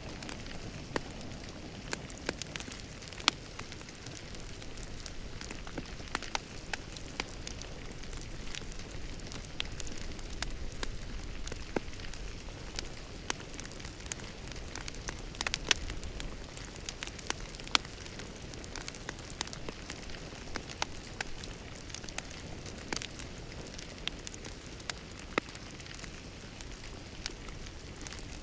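Wood fire crackling in a fireplace: a steady soft hiss with frequent irregular pops and snaps, a few louder than the rest.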